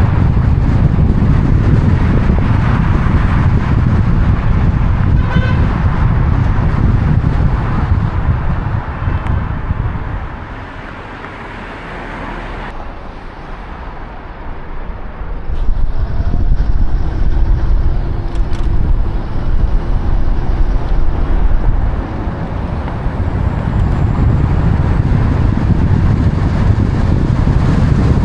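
Road traffic with heavy wind rumble on the microphone, and a short vehicle horn toot about five seconds in. The wind rumble drops away for a few seconds around the middle, then returns.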